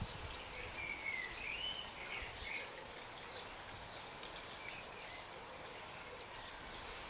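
Steady background hiss with a bird singing faintly: a few warbling whistles in the first three seconds, then scattered short chirps.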